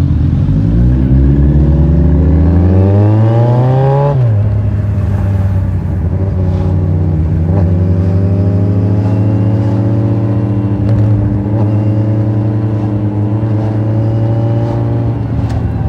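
Kawasaki Z1000's inline-four engine accelerating hard, its pitch rising for about four seconds, then dropping sharply with an upshift and settling into a steady note that climbs slowly as the bike holds speed.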